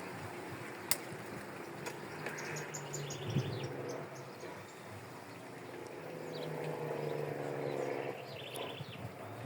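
Outdoor ambience: small birds chirping in short runs of quick, high notes, twice, over a low engine hum that swells and fades past two-thirds of the way through. One sharp click about a second in.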